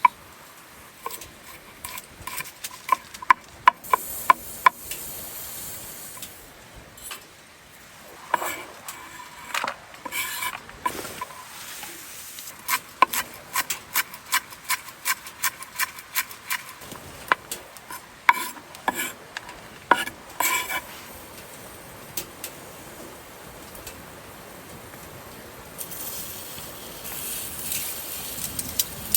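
A metal utensil clinking and scraping against a metal pot while food is stirred, in several bursts of sharp ringing taps with pauses between.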